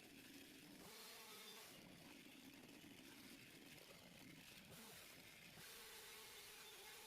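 Near silence: faint background with a faint steady hum.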